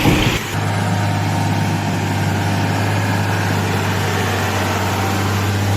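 Heavy truck engine running steadily with an even, low drone. A different sound cuts off abruptly about half a second in.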